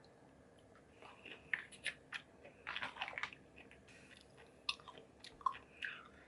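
A person eating close to the microphone: crunchy bites and chewing in short bursts, starting about a second in.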